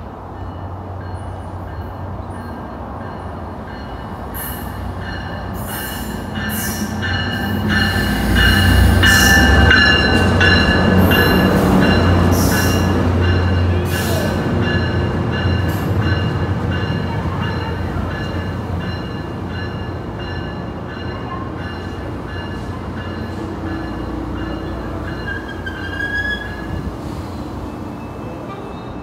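Passenger train on the station track: a rumble builds to its loudest about eight seconds in, with quick clicks of the wheels over rail joints and a steady high wheel squeal, then slowly eases off.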